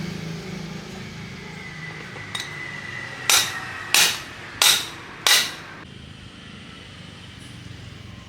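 Four sharp knocks, evenly spaced about two-thirds of a second apart, each ringing briefly, over a faint steady high tone that stops just after the last knock.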